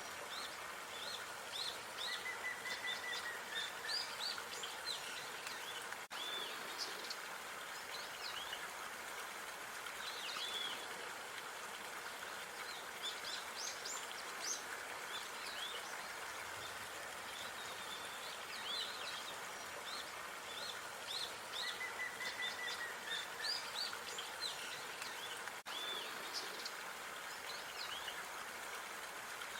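Park ambience: small birds chirping and trilling over a steady hiss of background noise, with a brief dropout twice where the loop joins.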